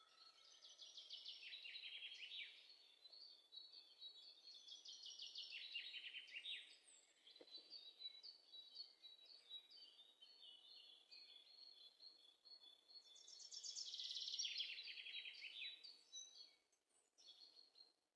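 Faint bird song: three trilled phrases of rapid, high falling notes, the last and loudest about three-quarters of the way through, over faint background hiss.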